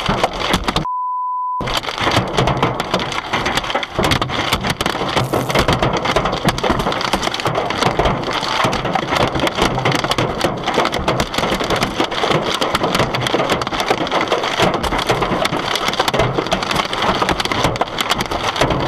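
Hailstones pelting a car: a dense, continuous clatter of rapid hits. Near the start the clatter cuts out for under a second, and a single-tone bleep sounds in its place.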